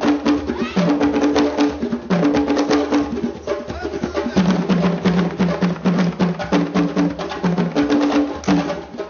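Fast, dense African percussion music: rapid drum strokes with a sharp wood-block-like click, over a repeating low two-note pitched figure.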